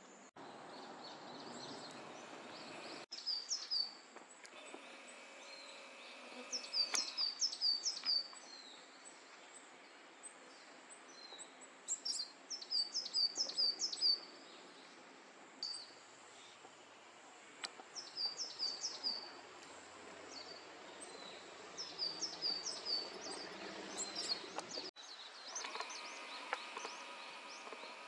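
A songbird singing short phrases of repeated high, downslurred notes, a new phrase every few seconds, over a steady outdoor hiss. The background changes abruptly twice, once near the start and once near the end.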